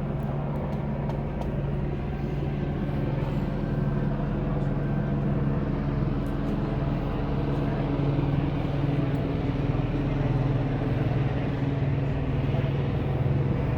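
Steady low engine drone with an even hum that does not change.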